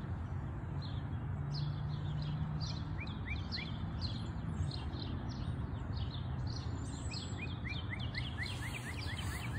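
Birds chirping: many short, quick calls repeating throughout, with runs of rising chirps about three seconds in and again near the end, over a steady low outdoor rumble.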